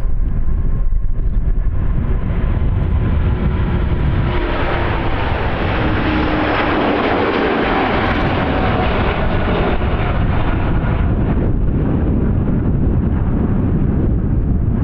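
Airbus A350-941's Rolls-Royce Trent XWB jet engines at takeoff power, a loud jet roar over a deep rumble. The roar swells to its peak about halfway through, with a tone that falls in pitch as the aircraft passes, then eases off.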